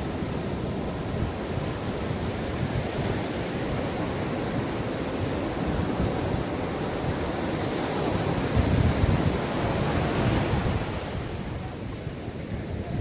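Ocean waves breaking and washing up the beach, one wave swelling loudest about two-thirds of the way through before easing off. Wind rumbles on the microphone.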